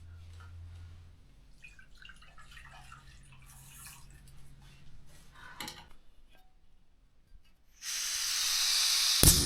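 Small handling clicks and a knock, then about eight seconds in a portable gas camping stove opens with a sudden loud hiss of gas. A sharp click follows about a second later, and the burner runs on with a lower rumble added to the hiss.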